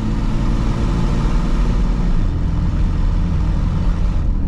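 Loud, unmuffled exhaust from a 2002 Chevy Blazer's 4.3L Vortec V6 on the road, venting through the open O2 sensor ports ahead of the catalytic converters. The engine pulls smoothly this way, the sign that the catalytic converters are clogged.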